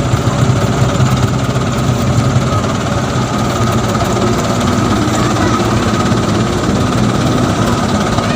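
A truck engine running steadily under load, its note rising a little about three seconds in.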